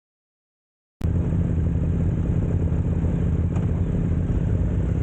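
Motorcycle engine running steadily, starting abruptly about a second in after total silence.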